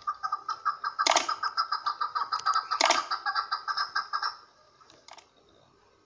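Chukar partridge calling: a fast, even run of clucking notes with two sharper, louder notes in the middle. The run stops about four and a half seconds in, leaving one faint note after it.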